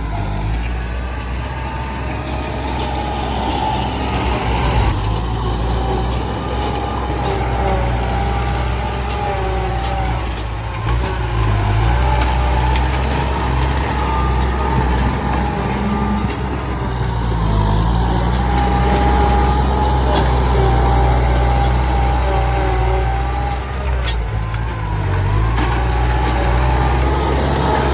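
Heavy diesel engine of a truck or earthmoving machine running under load: a steady low drone that dips and recovers in pitch a few times, with a higher whine running over it.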